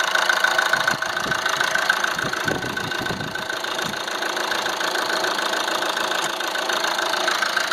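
2014 Chevy Cruze's 2.0-litre four-cylinder turbodiesel idling steadily under the open hood, running normally.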